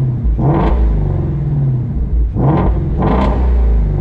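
Ford Shelby GT350's 5.2-litre flat-plane-crank Voodoo V8 idling and blipped three times, once about half a second in and twice in quick succession near the end, with its active exhaust valves open. It rumbles, heard from inside the cabin.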